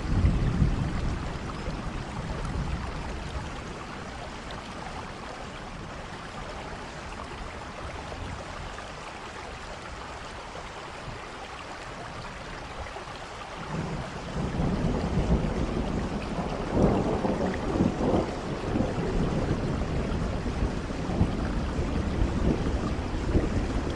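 Rain falling steadily with low rolling thunder: a rumble in the first few seconds, a quieter stretch, then heavier rumbling from a little past halfway.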